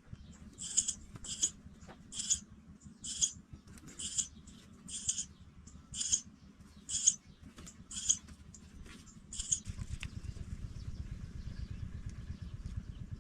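Pipit calling: about ten short, thin, high-pitched calls, roughly one a second, which stop after about nine seconds. Near the end a low, steady rumble comes in.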